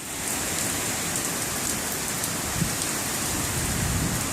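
Hurricane wind and driving rain, a steady dense rushing hiss, with low rumbling wind buffets on the microphone swelling near the end.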